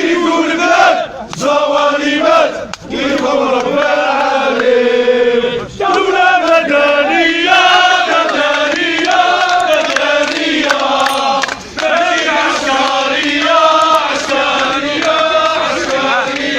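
A crowd of men chanting protest slogans in unison, in rhythmic phrases with short breaks between them.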